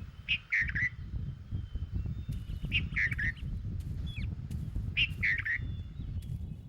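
A bird calling three times, each a short harsh call about two seconds apart, over a steady low rumble.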